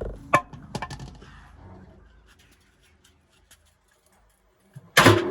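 A few light clicks and knocks in the first second or so, dying away to near silence; loud music starts near the end.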